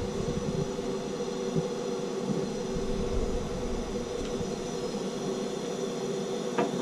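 Gas plumbing torch burning with a steady hiss while it heats a copper pipe joint to loosen the solder, with a short metal knock near the end.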